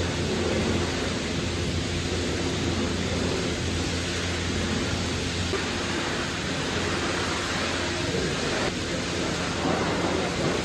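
Pressure-washer wand spraying water, a steady hiss and rush with a low pump hum beneath it.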